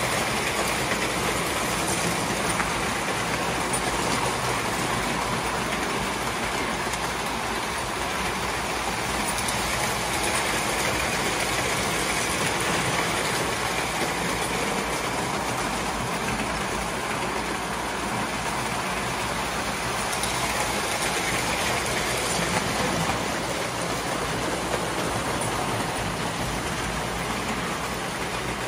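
A train running steadily, making an even, unbroken running noise with no breaks or sudden events.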